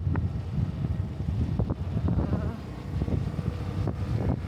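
Small motorbike engine running at speed while riding, with wind buffeting the microphone.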